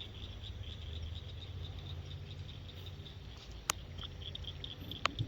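A chorus of frogs calling in fast, steady pulses, over a low rumble. Two sharp clicks, one about two-thirds of the way in and one near the end.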